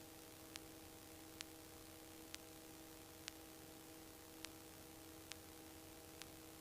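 Near silence: a faint steady hiss and hum, with faint ticks about once a second.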